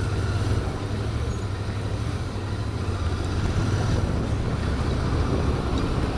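Royal Enfield Interceptor 650's parallel-twin engine running steadily under way, with a steady low hum and road noise.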